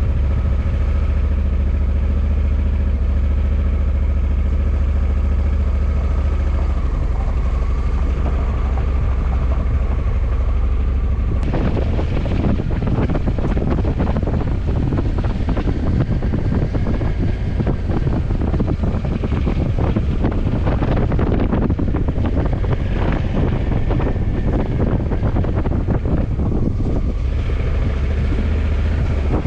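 Honda CRF1100 Africa Twin's parallel-twin engine running steadily at a low, even note. About a third of the way in, wind noise buffeting the microphone rises over the engine, as when the bike is under way.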